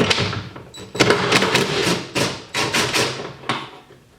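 Wrench working a bolt loose on a metal strut bracket: a sharp knock, then a second or so later a run of quick, irregular metallic clicks and clanks that stops shortly before the end.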